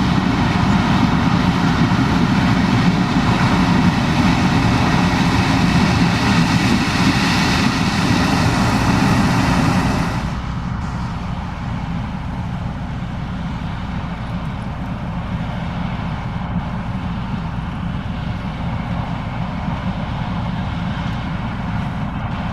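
Case IH 2366 combine harvesting corn, its engine and threshing machinery running steadily. About halfway through the sound drops, quieter and duller.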